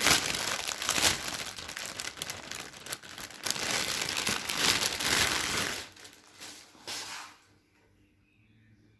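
Crinkly material, such as wrapping, being handled and crumpled in a steady run of crackles that stops about seven seconds in.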